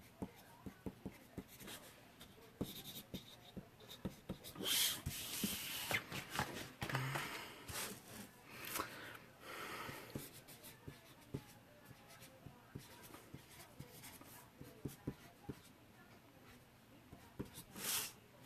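Handwriting on the back of a stencil transfer: scratchy writing strokes in short spells, with small clicks and taps of handling between them.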